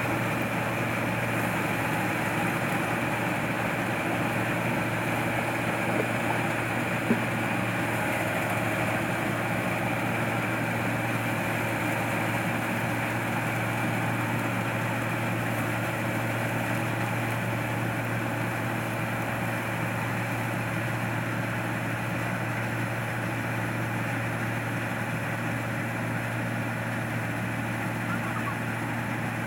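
Rice combine harvester's engine running steadily, a constant low drone with no change in speed.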